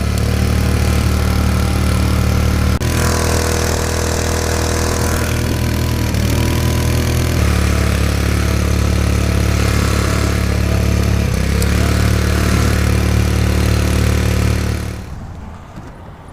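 Small outboard motor on an inflatable dinghy running steadily under way. It shifts speed a couple of times, then drops away about a second before the end.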